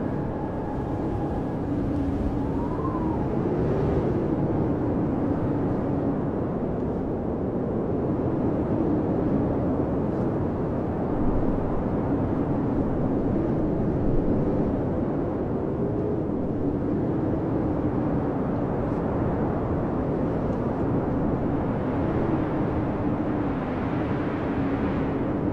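Blizzard wind blowing steadily in a dense rush, with a low howl that slowly wavers up and down in pitch.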